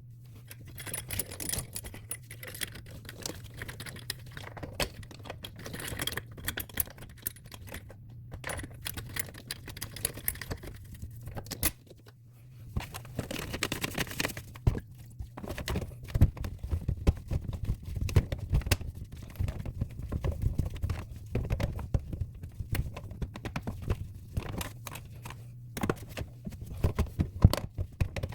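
Sink drain parts being handled and fitted back together under the sink: irregular clicks, knocks and rattles, over a steady low hum.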